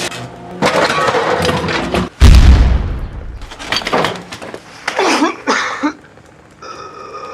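A sudden, very loud, deep boom about two seconds in, between bursts of noisy crashing sound. Near the end a few steady tones come in.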